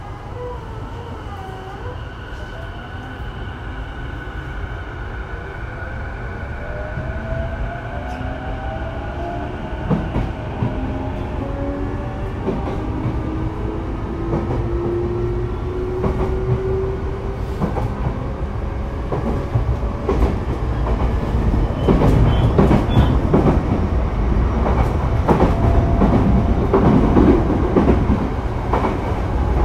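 Sotetsu 12000 series electric train heard from inside a passenger car as it pulls away and accelerates. Its motor whine climbs steadily in pitch over the first fifteen seconds or so. The running rumble then grows louder, with wheels clattering and knocking over rail joints.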